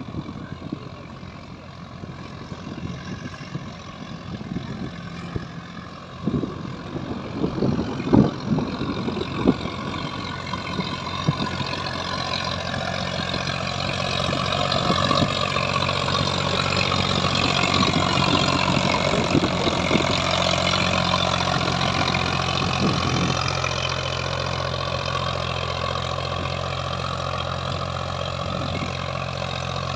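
Sonalika DI-734 tractor's diesel engine running steadily, with a burst of sharp knocks and clatters between about six and twelve seconds in. After that a higher-pitched noise swells, peaks and eases off again while the engine runs on.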